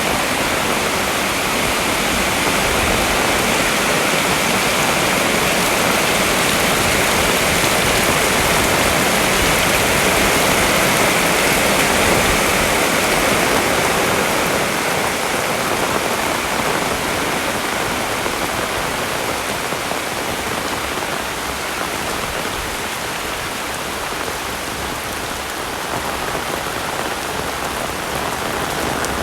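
Heavy rain falling steadily, a dense hiss that eases slightly in the second half.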